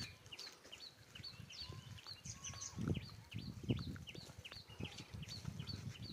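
A bird calling over and over with short, high, downward-sliding chirps, about two a second. A few low thuds of camera handling or wind come in a little past the middle.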